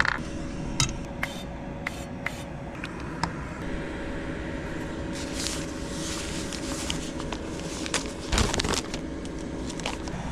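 Kitchen handling noises in a small space: a few sharp clicks and knocks, then a stretch of rough scraping and rustling, with one louder scrape near the end. A steady low hum runs underneath.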